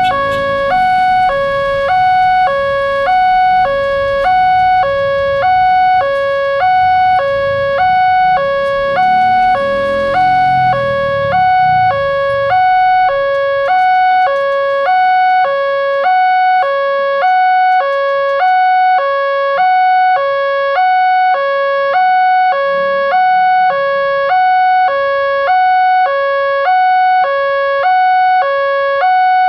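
Railroad level-crossing warning alarm sounding: an electronic two-tone signal that switches between a lower and a higher tone about every 0.7 s, the signal that a train is approaching and the crossing is closing. A low rumble rises and fades about a third of the way in.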